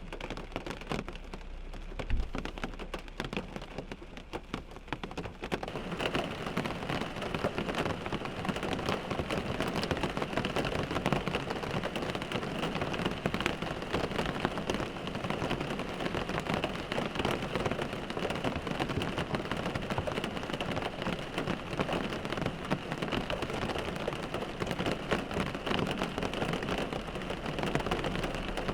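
Rain falling on a car windshield: a dense, even spatter of drop impacts with a single low thump about two seconds in. The rain grows heavier and louder about six seconds in, then holds steady.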